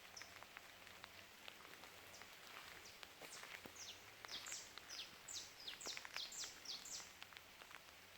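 Faint bird calls: a quick series of about a dozen short, high notes, each dropping in pitch, from about three seconds in until near the end, over a light patter of small ticks.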